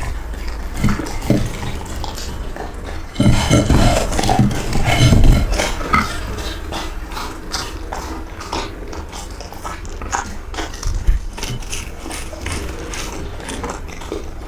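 A dog eating from a bowl: a run of small clinks, clicks and knocks of food against the bowl, louder and busier for a few seconds about three seconds in.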